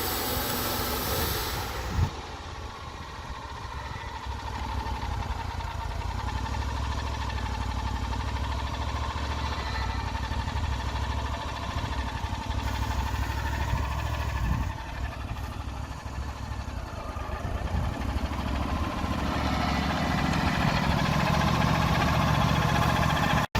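Engine of a Wood-Mizer LT40 portable band sawmill running steadily. A high hiss stops with a sharp click about two seconds in, and the engine grows a little louder near the end.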